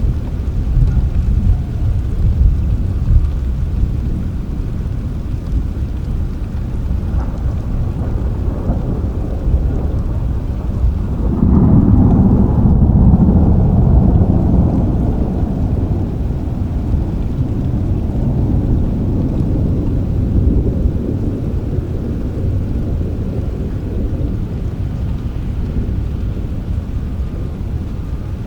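Steady rain with a low thunder rumble that swells about eleven seconds in and slowly fades over the following several seconds.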